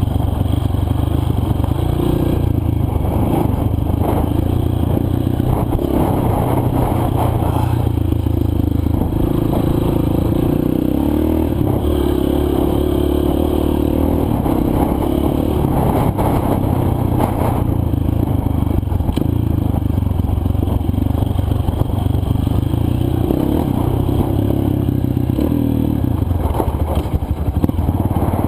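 Single-cylinder dirt bike engine running at moderate, fairly steady revs on a rocky downhill trail, with scattered clatter and scrapes from the bike over loose rock.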